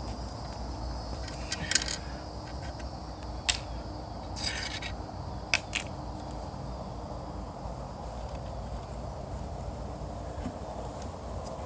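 A few sharp knocks and short scrapes of hard parts as a Sea-Doo jet pump is worked onto its plastic mounting studs, over a steady high insect trill.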